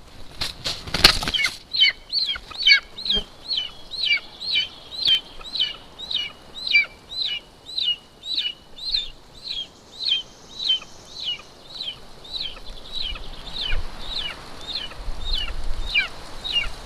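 Golden eagle wingbeats as it lands on the nest, then a long run of short, high, downward-slurred calls at about two a second, the food-begging of a golden eagle chick as food is brought in.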